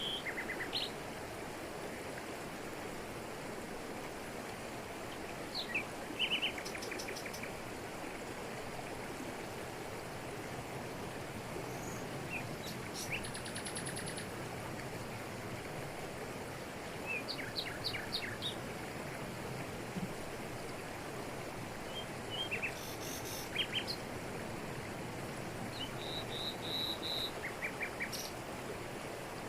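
Tropical forest waterfall with a steady rush of water falling over rocks, and birds calling now and then over it with short chirps and trills.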